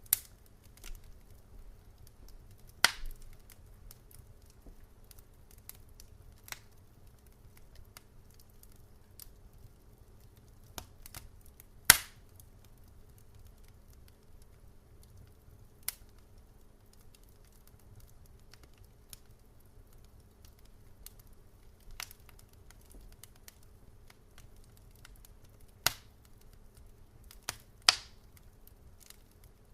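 Wood fire crackling in a fireplace: scattered sharp pops and snaps at irregular intervals, the loudest about twelve seconds in, over a faint low rumble.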